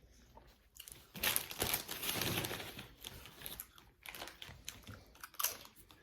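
Close-up eating and food handling: a loud crinkling rustle from about a second in that lasts around two seconds, then scattered small crunches and clicks.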